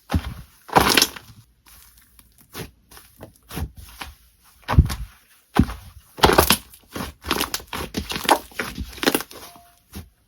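Slime being squeezed and pressed by hand, giving an irregular run of crackles and pops of varying strength.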